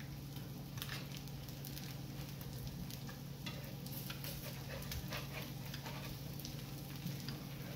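Fried eggs sizzling on an electric griddle, with a steady stream of small crackles and pops over a steady low hum.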